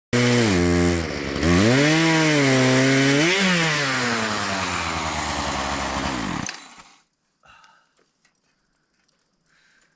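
Chainsaw on a chainsaw mill running under load, its engine pitch sagging and recovering as it cuts. It winds down and stops about six and a half seconds in, followed by a few faint knocks.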